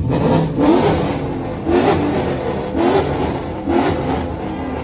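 Car engine accelerating hard: its pitch climbs and drops back four times in quick succession, then the sound fades away.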